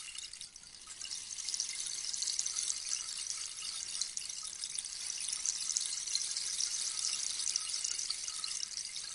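Rainstick: small pellets trickling down through the tube in a dense, rain-like patter. The flow dips briefly about half a second in, then picks up again and runs on steadily.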